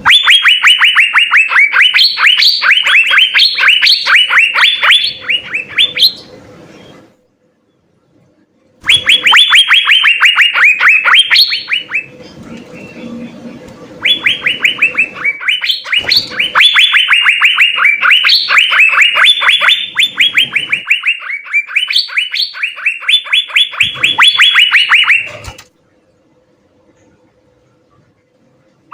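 Asian fairy-bluebird (cucak biru) singing in full song: fast strings of sharp, repeated, falling notes, several a second. It sings in bursts of a few seconds with pauses of about two to three seconds between them.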